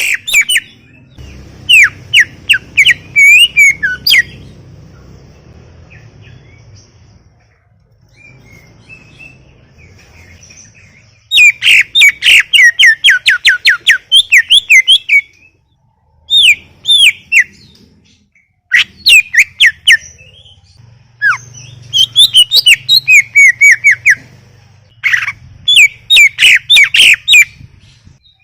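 Cucak ijo (green leafbird) in full song: bursts of rapid, sharp notes, each sweeping down in pitch, about five a second, broken by short pauses.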